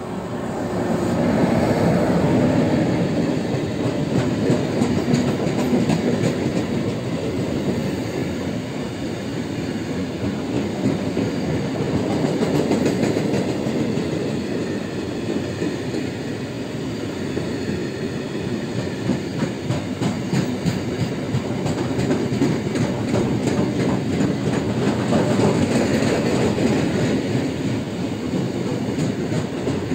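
Freight train passing close by: a continuous rumble of wagons, with the wheels clattering over the rail joints. It swells over the first couple of seconds and then holds loud.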